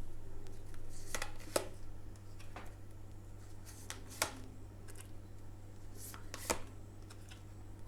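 Tarot cards being handled: soft shuffling rustle with about four sharp slaps as cards are laid down on a table.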